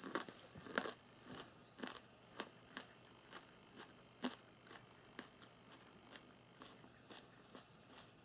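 Faint, crunchy chewing of a raw bird's eye chilli: irregular crunches about once or twice a second, fading later on.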